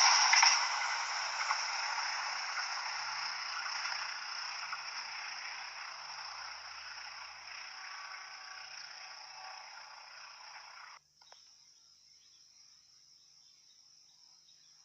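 A passing train's wheel and rail noise fading steadily as it moves away, cut off abruptly about eleven seconds in. Afterwards only a faint, steady, high-pitched chirring, like insects, is left.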